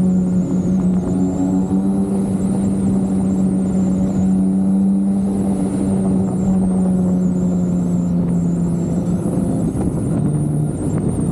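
BMW K1600B's inline-six engine running through a Remus aftermarket muffler while the bike cruises at steady speed. The exhaust note holds one steady pitch, sinks slightly, then drops lower about ten seconds in as the revs fall.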